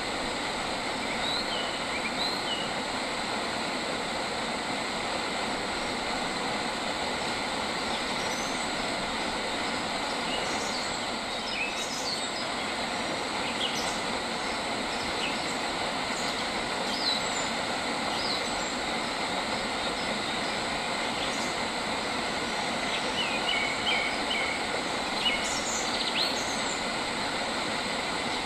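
Steady outdoor hiss with a faint even whine underneath, and small birds chirping in short scattered calls, with a quick run of chirps a little after the middle and again near the end.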